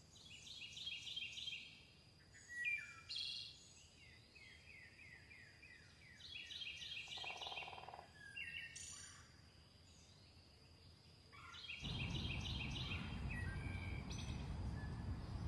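Songbirds singing: the same rapid trilled phrase repeats several times, with scattered chirps between. About twelve seconds in, a steady low rumbling outdoor noise comes in under the birdsong.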